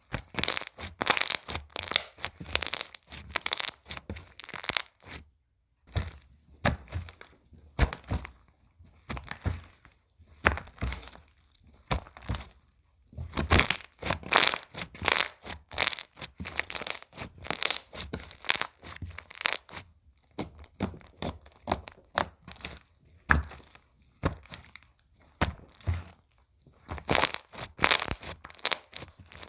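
Slime being squeezed, stretched and pressed by hand, giving dense bursts of crackling and popping clicks, in clusters with brief pauses between them.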